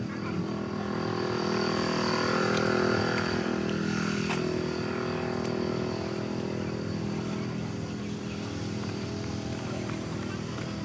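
Jeep engine idling steadily, swelling slightly a couple of seconds in, with a faint steady high-pitched whine above it.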